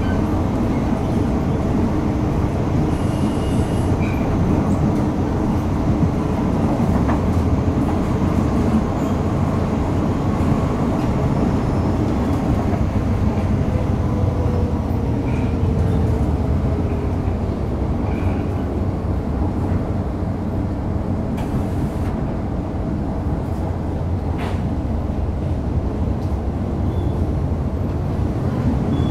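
Onboard running noise of an MTR Metro Cammell M-Train (C162, GEC GTO chopper traction) travelling between stations: a steady rumble of wheels and traction gear, with a faint tone gliding down about halfway through.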